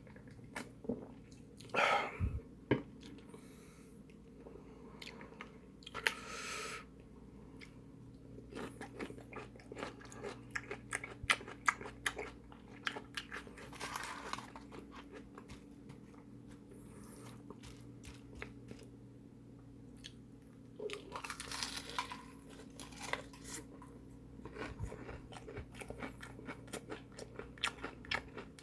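Crunching bites and chewing of crispy fried food, sharp crunches scattered throughout, with a few longer crackly stretches of chewing.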